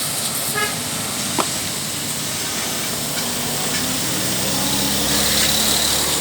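Pressure washer spraying water in a steady hiss over the hum of its motor, which grows a little stronger near the end.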